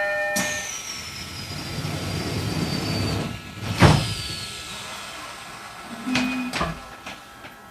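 E129-series train doors closing at departure: a sharp start and a hiss of air with a faint falling whistle, ending in a loud thud about four seconds in as the doors shut. A couple of shorter clunks follow a couple of seconds later.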